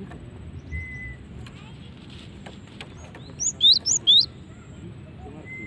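Female cinereous tit (gelatik batu) calling: a quick burst of four sharp, high chirps about three and a half seconds in, with a short thin whistled note before it and another at the end. This call is used to draw a response from male birds.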